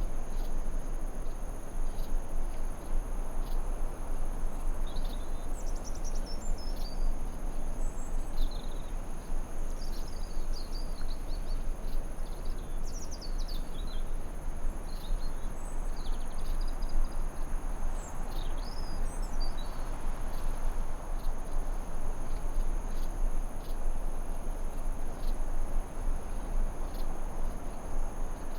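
Forest ambience: a steady hiss of white noise under a constant high insect trill, with short bird chirps and twitters scattered from about five to twenty seconds in.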